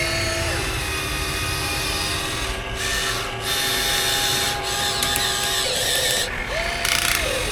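Small electric motors and gearing of a 1:14-scale RC construction machine whining as it works, several steady tones starting and stopping, with a short rising-and-falling whine about six and a half seconds in.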